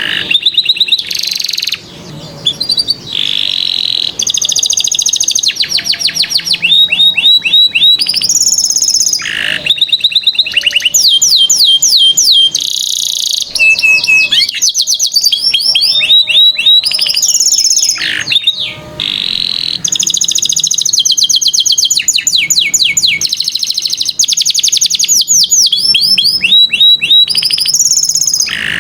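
Domestic canary singing a continuous, loud song of rapid trills, each phrase a fast run of repeated high notes, switching to a new phrase every second or two.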